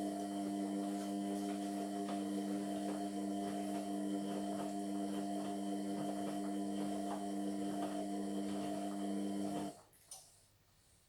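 Indesit MyTime washing machine running mid-wash with a steady motor hum and faint irregular ticking and sloshing, which cuts off suddenly near the end, followed by a single sharp click.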